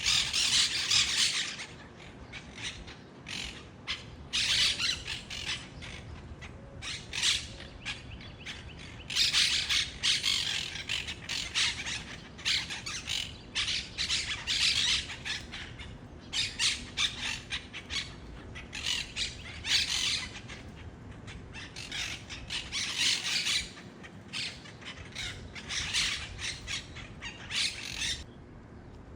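Monk parakeets giving harsh, screeching squawks in repeated bursts, one cluster after another.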